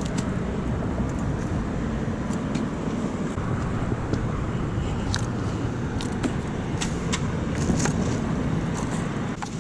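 Steady rumble of car traffic, with a scatter of sharp clicks and ticks, most of them in the second half.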